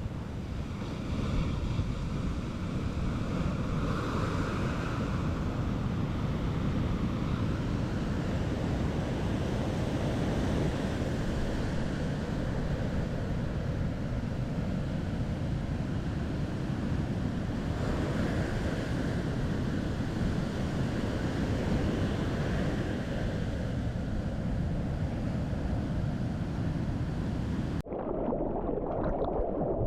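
Wind buffeting the microphone over the steady wash of ocean surf. About two seconds before the end the sound cuts abruptly to a duller, muffled sloshing of water.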